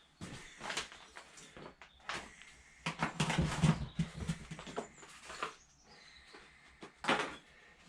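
Clicks and knocks of metal tools and parts being handled during engine work, loosest in the middle and with one louder knock about seven seconds in.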